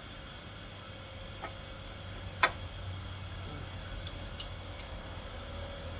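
A few light metallic clicks and ticks from hand tools on the sawmill edger's bearing mounting and set screws, one louder about two and a half seconds in and three more close together near the end, over a steady low hum.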